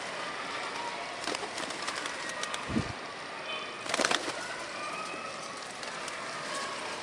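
A flock of birds gathered for scattered grain: scattered short calls and clicks, a low thump a little before three seconds in, and a loud sharp flurry about four seconds in.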